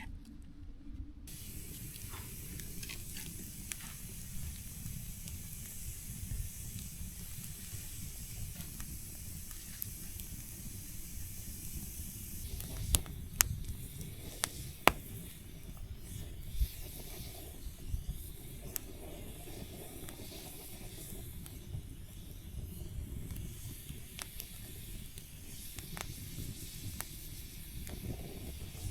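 Hamburger meat sizzling as it fries: a steady hiss that sets in about a second in, with a few sharp pops about halfway through.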